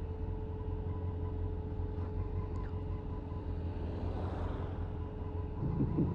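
Honda CBF motorcycle engine running steadily on the move, with a low rumble of wind and road noise on the helmet camera's microphone.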